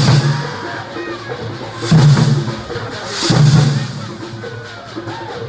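Traditional Thambolam festival percussion band playing, with heavy bass drum strikes at the start, about two seconds in and a little after three seconds, and lighter beats between them.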